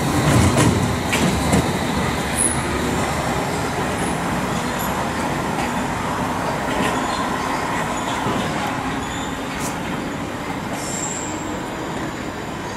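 London Underground D78 Stock train running over curved pointwork as it moves away, its sound slowly fading, with a few brief high wheel squeals on the curve.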